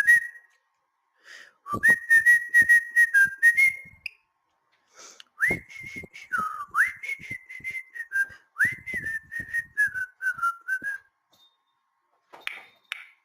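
Cockatiel whistling a tune in two phrases of held, stuttering notes with upward slurs, separated by a short pause, then a couple of short chirps near the end.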